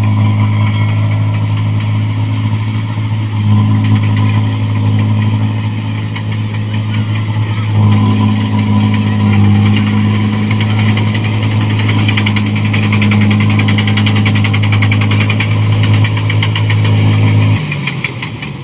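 New Holland 1545 combine harvester's diesel engine running steadily with a loud exhaust note; near the end the engine note drops and the sound gets quieter.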